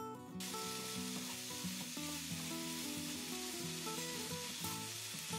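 Tofu and shishito peppers sizzling in a frying pan as they are stir-fried with sauce, sliced green onion and red chili. The steady sizzle comes in about half a second in.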